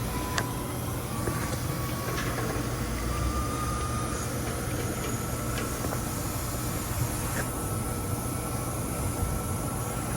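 Nitrogen rushing from a cylinder regulator through gauge hoses into a refrigerant line being pressurised for a leak test: a steady hiss and rush with a faint thin whistle and a few light clicks.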